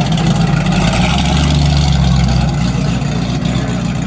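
Car engine idling close by, a deep steady rumble that swells for a second or so about a second in, then settles back.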